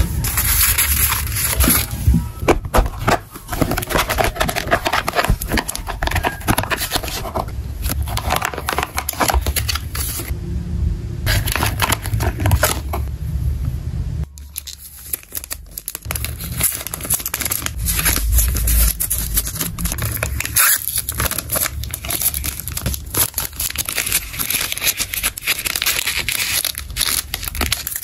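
Packaging materials being handled by hand while packing a parcel: crinkling plastic and paper and tearing, with many small clicks and rustles, briefly quieter about halfway through.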